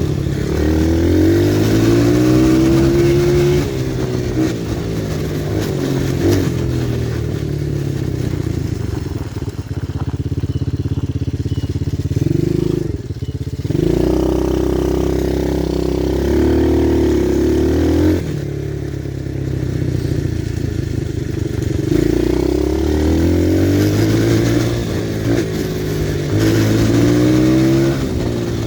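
Pit bike engine being ridden, its pitch climbing through the revs and falling back several times, with a steadier stretch held at high revs around the middle.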